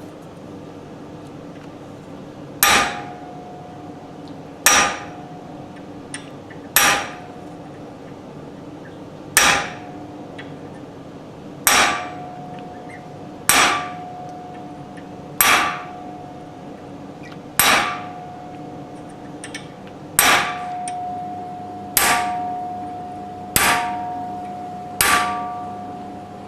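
Hammer striking a chisel to cut the folds of a loincloth into a stainless steel crucifix figure. A dozen single blows come about two seconds apart, each with a short metallic ring that lasts longer on the later blows.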